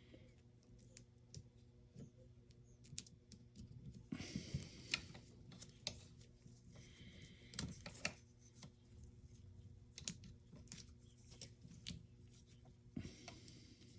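Faint clicks and taps of small parts being handled, with brief scraping or rustling three times, over a low steady hum.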